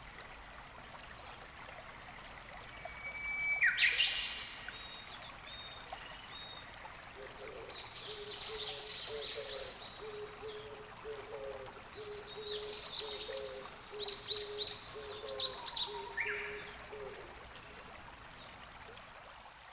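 Wild birds calling over a steady wash of water. A loud call sweeps downward about four seconds in, then two bouts of rapid, repeated high calls follow, with a row of short low notes underneath.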